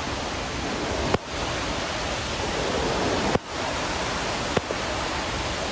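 Steady roar of the Iguazu Falls, a dense rush of falling water. Brief clicks with momentary dips in the roar about a second in, just after three seconds and at about four and a half seconds.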